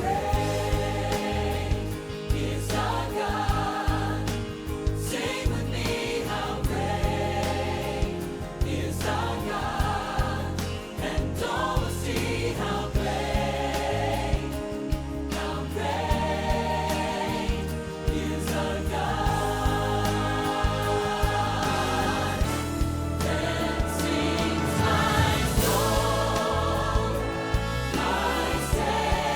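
Recorded Christian worship song: several voices singing together as a choir over instrumental accompaniment with a steady beat.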